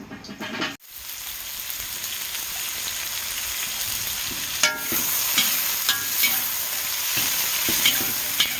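Food frying in a hot pan, a steady sizzle that starts suddenly about a second in. A few clicks and ringing metal clinks, twice near the middle, come from a utensil stirring against the pan.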